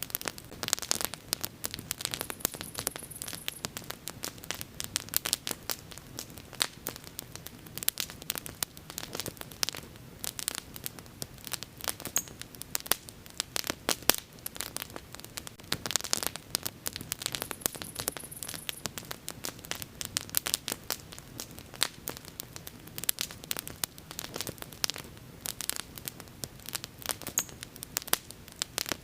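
Bonfire crackling: dense, irregular pops and snaps over a low, steady rumble of flame.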